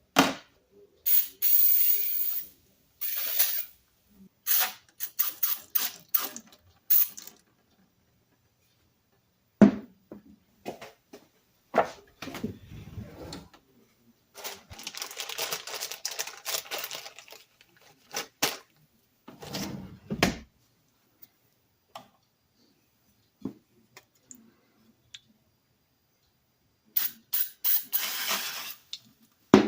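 Aerosol brake cleaner sprayed in repeated hissing bursts, some short and quick, some held for a few seconds, to flush grease out of the parts of an old push drill. A few sharp knocks of metal parts fall between the bursts.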